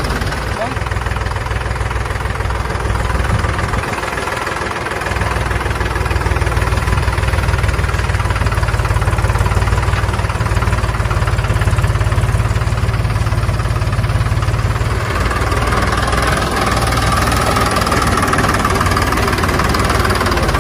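Mini tractor engine running with a steady low throb, getting louder about five seconds in.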